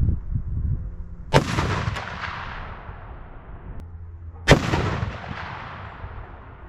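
Barrett M82A1 semi-automatic .50 BMG rifle firing two shots about three seconds apart, each a sharp crack followed by a long, fading rumble of echo.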